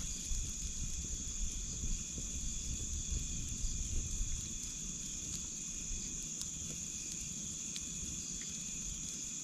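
Steady chorus of crickets and other insects, a continuous high trill with fainter lower tones beneath it. Underneath runs a low, uneven rumble that eases off about halfway through.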